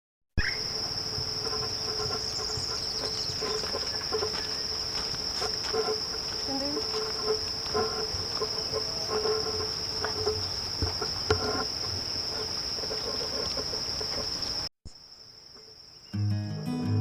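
Insects, likely crickets, trilling in one steady, unbroken high-pitched tone, with faint scattered clicks and knocks beneath it. The sound cuts off abruptly about fifteen seconds in, then resumes more faintly.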